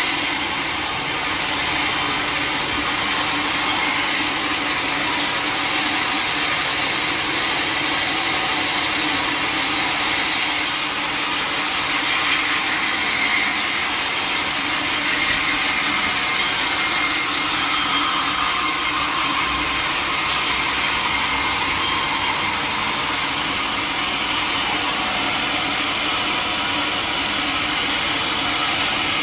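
A sawmill blade cutting steadily through a mahogany log.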